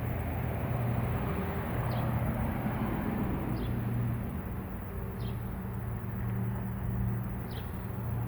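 Low, steady hum of a honeybee swarm buzzing as the bees walk into a hive box, some of them fanning, a sign that they are taking to the new home. A bird gives four short, high chirps over the top.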